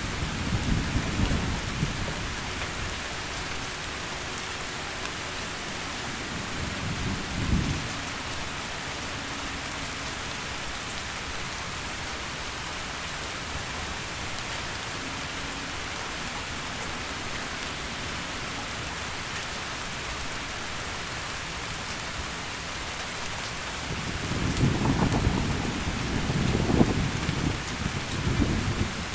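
Steady heavy rain with thunder: low rumbles in the first couple of seconds, a short sharp clap about seven seconds in, then a longer rolling rumble from about 24 seconds on.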